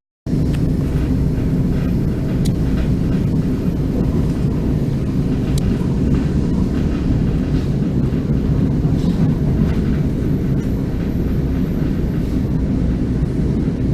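Train in motion: a steady low rumble with a few faint clicks.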